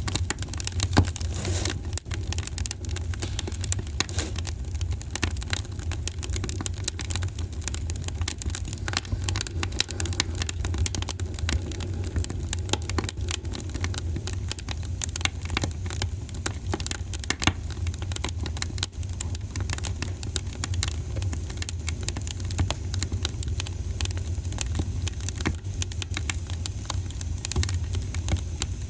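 Wood fire in a fireplace crackling, with many irregular sharp pops over a steady low rumble of the flames; one louder pop about a second in.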